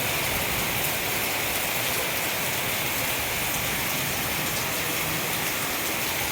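Heavy rain from a rainstorm pouring down steadily, an even dense wash of drops with no let-up.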